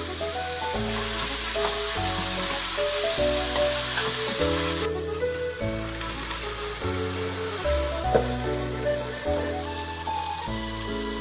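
Food sizzling in hot frying pans, a stir-fry of bok choy, carrots and shiitake mushrooms with salmon frying alongside, over light background music. The sizzle is loudest for the first few seconds.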